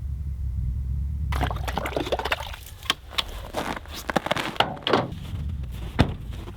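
A truck engine idles with a steady low rumble. From about a second in, a run of rustling and clicking handling noises lies over it, with one sharp click near the end.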